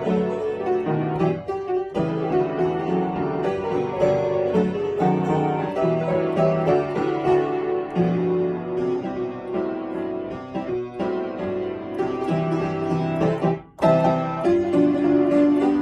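Piano playing a flowing piece, with a brief break in the sound a little before the end.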